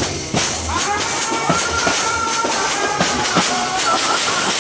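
Indian brass band playing a film song: a wavering lead melody over repeated drum strikes, with a steady hiss underneath.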